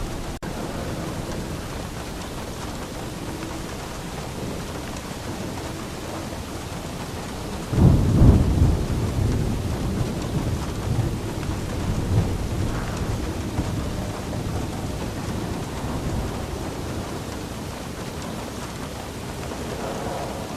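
Steady rain falling, with a clap of thunder about eight seconds in that rumbles on for several seconds and slowly dies away. A momentary dropout in the sound comes just after the start.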